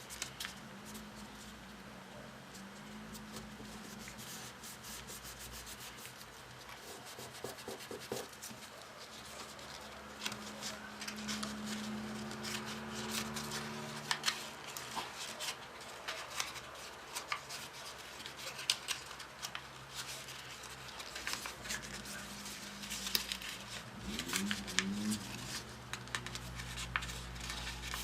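Sheets of paper rubbing and rustling, with many short crisp ticks, as they are folded, creased and pressed by hand.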